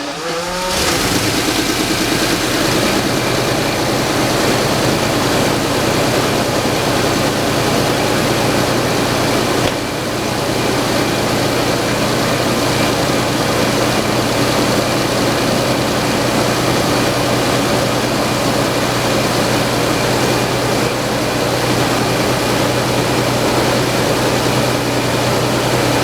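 Jaguar car engine cold-starting about a second in, then running steadily with a constant low hum and a brief dip about ten seconds in.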